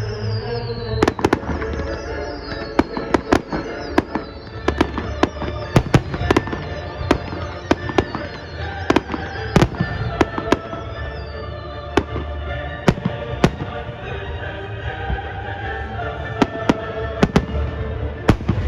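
Fireworks display: a continuous run of sharp bangs and pops from bursting aerial shells, several a second at times, over music playing throughout.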